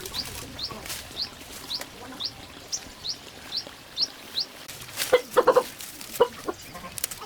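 A small bird's high, short rising chirp repeated about twice a second, then chickens clucking in a quick run of clucks from about five seconds in.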